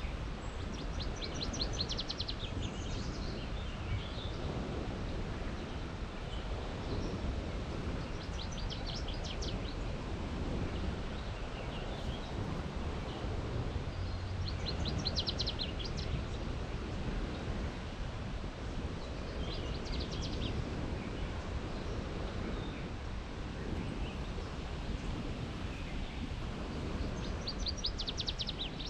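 A songbird repeating a short, rapid song of many quick high notes about every six seconds, five times. Under it runs a steady low background noise.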